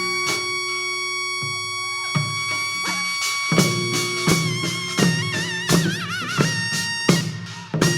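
Korean traditional music for a Jindo drum dance. A reedy wind instrument holds long high notes with wavering pitch bends. From about halfway in, drum strokes join it, roughly every three quarters of a second.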